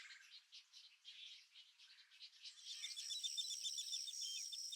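Faint outdoor wildlife sound: scattered high chirps, then about halfway through a steady high insect buzz sets in with rapid, closely repeated chirps over it.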